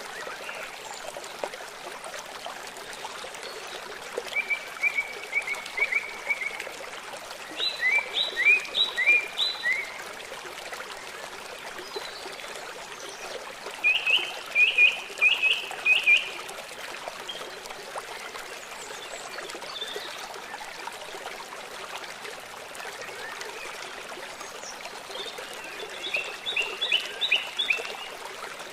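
Running water from a stream or small waterfall makes a steady rushing hiss. A songbird cuts in four times with short bursts of quick, repeated chirping notes.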